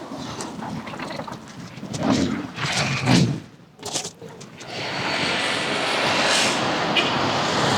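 Outdoor ambience, with a few scattered sounds at first, then a steady rushing noise that sets in about five seconds in and holds.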